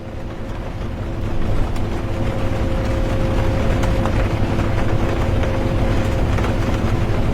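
Interior of a moving bus: steady low engine and road rumble with a constant drivetrain hum, under an even hiss of rain and a few light ticks. It fades in over the first second and a half, then holds steady.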